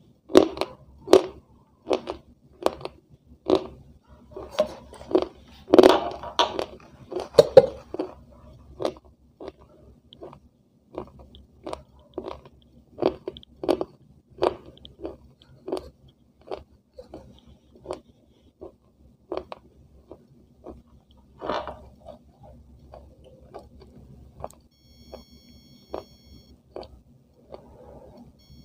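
Close-up chewing of a hard, crunchy food: a crisp crunch every half second to a second. The crunches are loudest in the first eight seconds and fainter after that.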